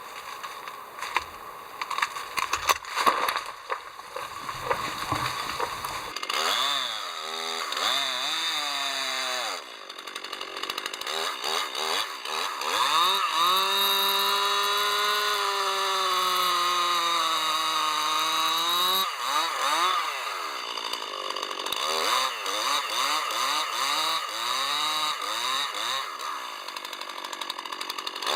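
A few knocks, then a chainsaw revving up and down and cutting wood. It holds a long steady cut in the middle, its pitch sagging slightly under load, before revving in short bursts again.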